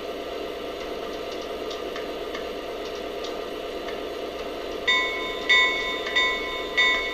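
Onboard digital sound system of a Lionel Lionmaster SD90 model diesel locomotive playing its start-up: a steady diesel engine drone with faint ticks, then, about five seconds in, the locomotive bell starts ringing, about one and a half strokes a second.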